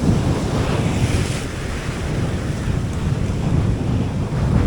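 Strong wind buffeting the microphone in a loud, rough rumble, with sea surf washing behind it; a brief hiss of wash comes through about a second in.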